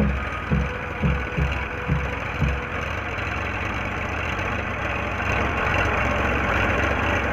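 Massey Ferguson 1035 DI tractor's three-cylinder diesel engine running steadily. A regular thudding beat, about two a second, sounds over it for the first two and a half seconds and then stops.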